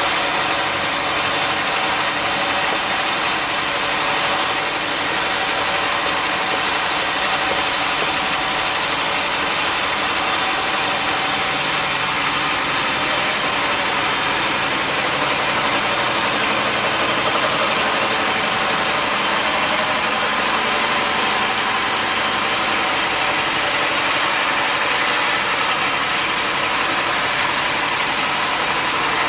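Sawmill machinery running steadily, a continuous loud mechanical drone with a high whine and hiss that does not change.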